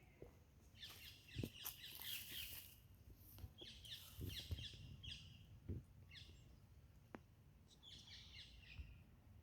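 Faint birdsong: several short bursts of quick, high chirping notes, with a few soft thumps in between.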